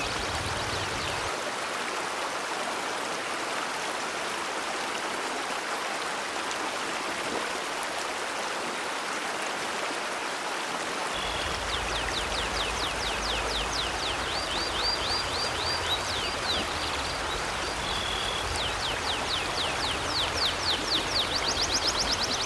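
River water rushing steadily. From about halfway through, a bird sings fast trills of high, repeated chirps over it.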